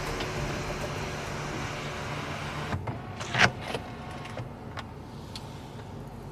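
Mercedes-Benz C300's electric sunroof motor running steadily for nearly three seconds as the roof panel opens, then stopping, with a sharp click about half a second later.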